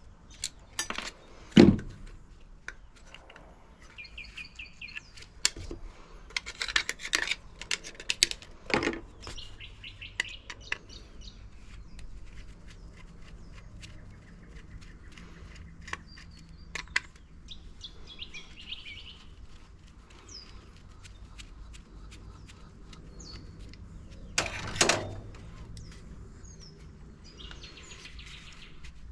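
Scattered knocks and clicks of washing machine parts and tools being handled, with a louder knock about two seconds in and another near the end. Birds chirp in the background.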